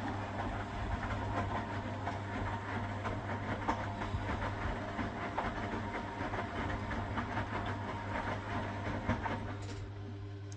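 1969 Zanker VA520 washing machine with its Hanning gear motor running: a steady hum under a busy mechanical rattle. The rattle falls away after a click near the end, leaving a quieter, smoother running sound.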